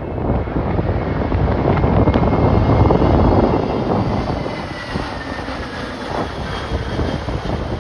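Jet airliner passing close by, its engine noise swelling to a peak about three seconds in and then fading, with a high whine that falls in pitch as it goes by. Storm-force wind buffets the microphone throughout.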